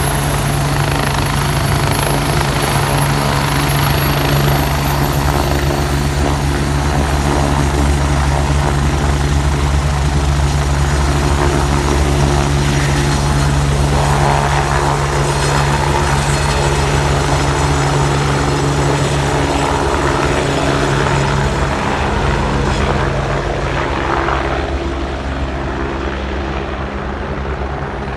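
Police helicopter flying, its rotor and engine running steadily and loudly, the sound growing somewhat fainter over the last few seconds.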